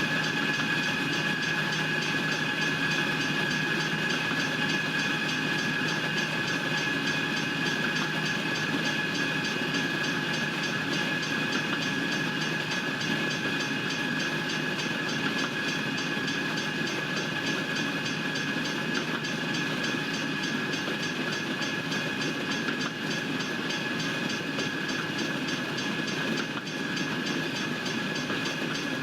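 Norfolk Southern freight train rolling steadily past a grade crossing: wheels rumbling and clacking over the rails, with a steady high ringing and rapid, evenly spaced dings like a crossing bell running throughout.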